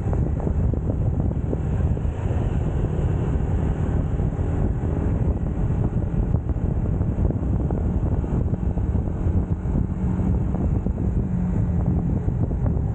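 UM Scrambler X motorcycle engine running steadily while riding, with heavy wind buffeting on the camera's microphone.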